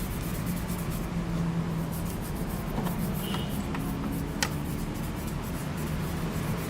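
Toothbrush scrubbing a wet cola-and-dish-soap mixture onto a rusty motorcycle exhaust pipe in quick, irregular scratchy strokes, over a steady low hum.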